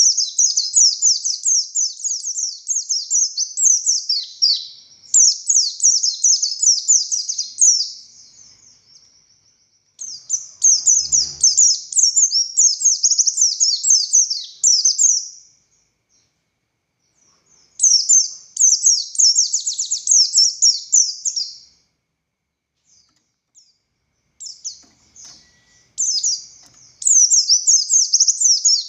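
White-eye (pleci buxtoni) singing a fast, chattering song of rapid high notes in long bursts, broken by short pauses about eight, sixteen and twenty-two seconds in.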